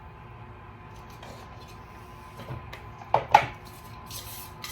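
Kitchenware being handled: two sharp knocks close together about three seconds in, over a low steady background.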